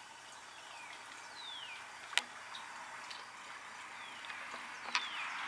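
Birds calling: a few short whistled notes sliding downward in pitch, with two sharp clicks about two seconds and five seconds in.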